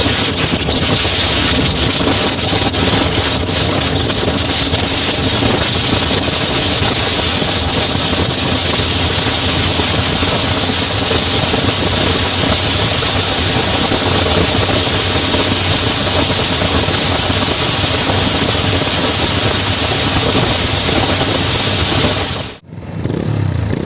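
Motorcycle engine running at a steady pace under a constant rushing noise; the sound cuts off abruptly near the end, and a quieter engine sound follows.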